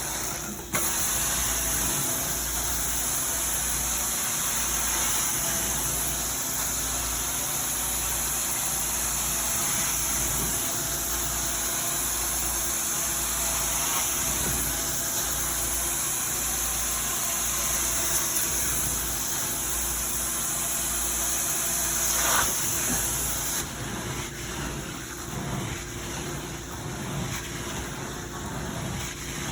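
Carpet cleaning machine running steadily: a low motor hum under a strong airy hiss. The hiss drops off near the end, leaving the lower hum.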